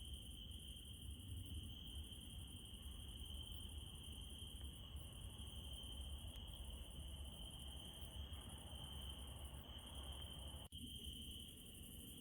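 Night insects, crickets most prominent, trilling steadily in a continuous high chorus over a low rumble. The sound drops out for an instant near the end.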